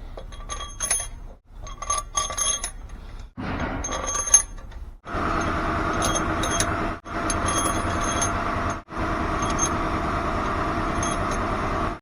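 Steel head bolts clinking with short, ringing metallic taps as they are handled and set into the cylinder head. From about five seconds in, a steady engine-like hum runs underneath.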